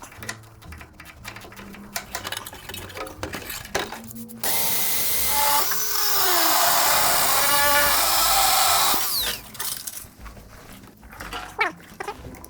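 A power drill runs for about four and a half seconds in the middle, its pitch shifting as it works, with scattered metallic clicks and taps of hand tools before and after.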